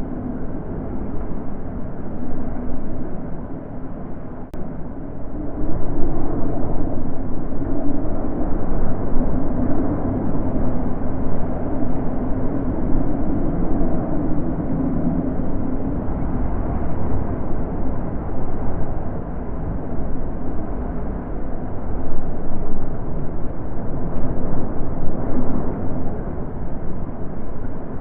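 Natural wind blowing, a low rushing sound that swells and eases in gusts, getting stronger about six seconds in.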